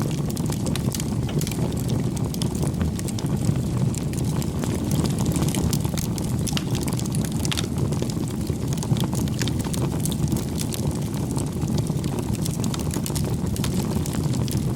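Wood fire burning: a steady low rush of flames with frequent sharp crackles and pops scattered throughout.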